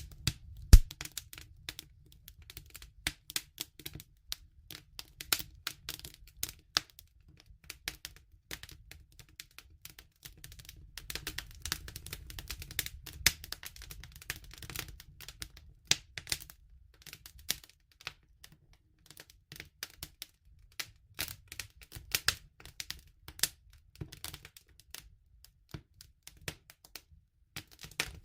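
Wood fire crackling: a dense, irregular run of sharp snaps and pops over a steady low rumble, with one loud pop about a second in.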